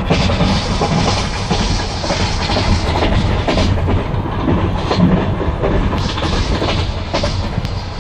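Passenger train running, heard from inside the carriage: the wheels clatter over the rail joints above a steady, loud rumble, with a few sharper knocks along the way.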